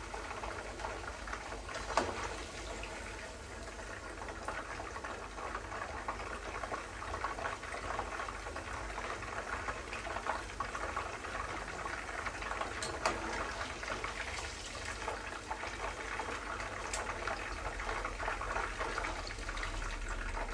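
Potato wedges sizzling and crackling as they fry in hot oil in a pot. A metal slotted spoon clinks sharply against the pot twice, about two seconds in and again past the middle.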